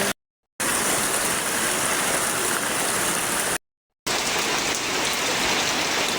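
Heavy rain falling in a steady, even hiss, broken twice by a short silence, once near the start and once about halfway through.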